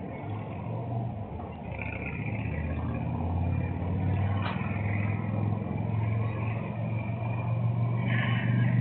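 Car engine run loudly and held at high revs, a steady low drone that grows louder from about a second and a half in. A single sharp click comes about four and a half seconds in.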